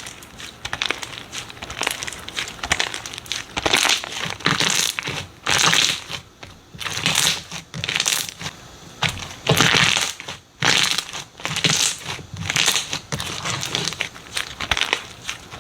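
Slime being squeezed and pressed by hand, in a string of irregular noisy bursts, each lasting under a second.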